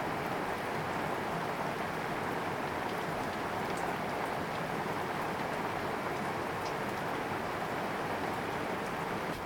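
Heavy rain falling steadily, a dense even hiss with a few single drops ticking now and then.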